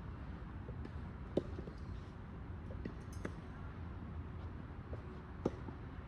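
Tennis balls being hit and bouncing on the court: a few sharp knocks, the loudest about a second and a half in and another near the end, over a steady low outdoor rumble.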